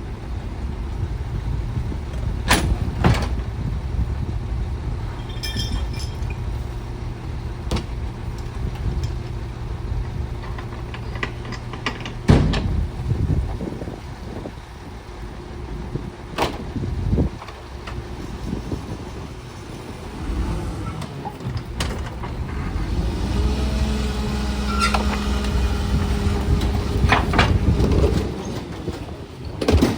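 Garbage truck's diesel engine running, with sharp metallic clanks and bangs every few seconds. Near the end the engine runs louder and steadier for about five seconds.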